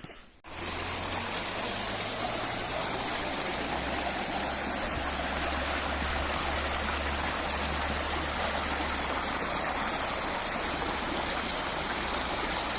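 Water rushing in a mountain stream: a steady, even rush that starts abruptly about half a second in.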